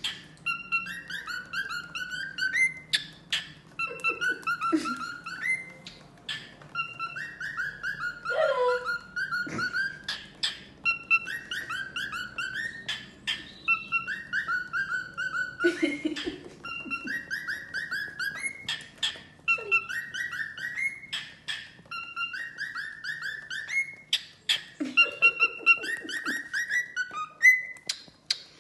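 Cockatiel singing, warbling the same short chirpy phrase over and over every second or two, with a few lower squawks and sharp clicks in between.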